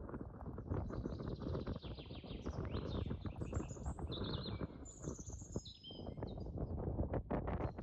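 Small birds chirping and singing in quick high notes and slides, busiest in the middle, over a steady low rustling noise with scattered short clicks.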